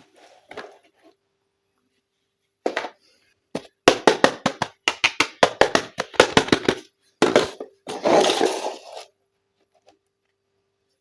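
Plastic toy packaging and parts being handled, crackling and clicking. There are a few sharp cracks, then a rapid run of them from about four to seven seconds in, and a longer crackling rustle just before the end.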